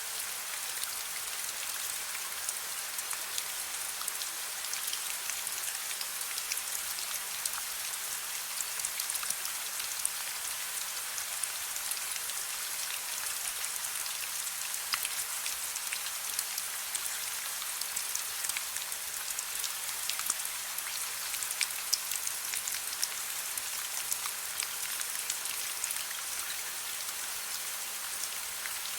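Steady soft rain, its drops pattering on a surface with many small individual ticks.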